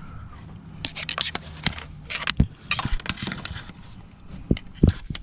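Scattered clicks, knocks and short scrapes of hands and a hand-held camera moving around in a car engine bay, with a few louder knocks near the end.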